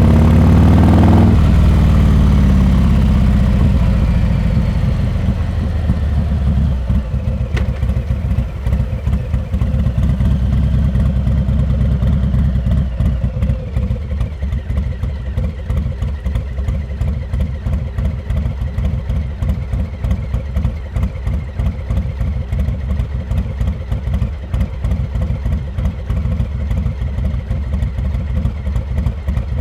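Harley-Davidson Heritage Classic 114's Milwaukee-Eight V-twin through a Rinehart exhaust, its pitch falling as the bike slows over the first few seconds, then settling into a steady pulsing idle.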